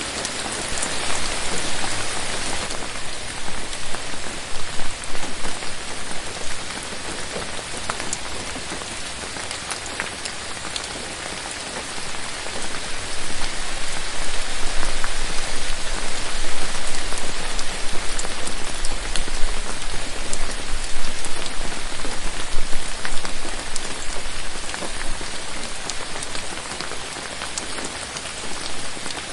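Steady rain falling on forest foliage, a dense hiss dotted with individual drops ticking. It grows heavier and louder from about the middle, then eases a little near the end.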